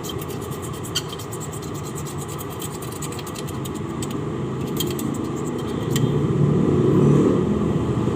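A vehicle engine runs with a steady low rumble that grows louder about six seconds in, with light clicking over it at first.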